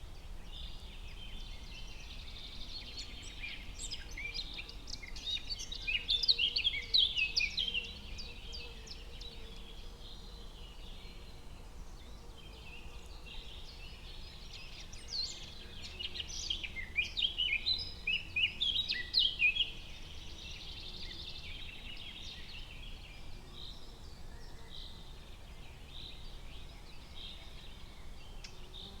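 Forest ambience with songbirds singing. Two loud bouts of fast, quick-note song come about 4 s in and again about 15 s in, with softer calls between them, over a faint steady background hiss.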